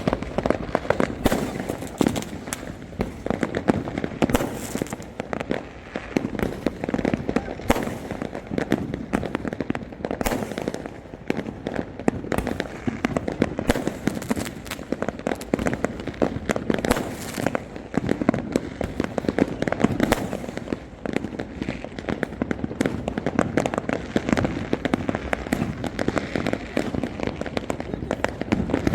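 Many fireworks going off at once: a continuous barrage of bangs and crackles with no let-up, sharp reports coming several times a second.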